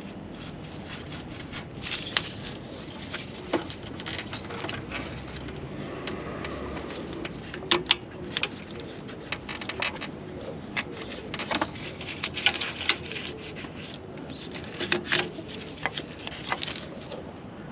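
Irregular clicks, knocks and scrapes, sharpest about eight seconds in, over a steady background noise.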